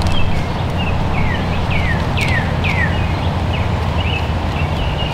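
A bird calling repeatedly with short downward-slurred chirps, several in quick succession and then thinning out, over a steady low rumble.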